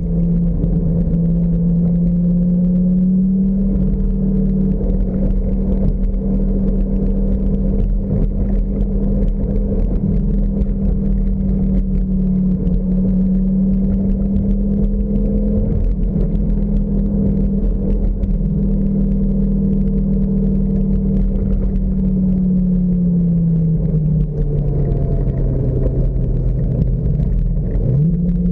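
Lamborghini sports car engine heard from inside the open-top cabin, running steadily at cruising speed. Its note falls as the car slows about three quarters of the way through, then rises sharply near the end as it accelerates again.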